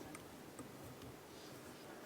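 Near silence: faint room tone with a light tick or two near the start.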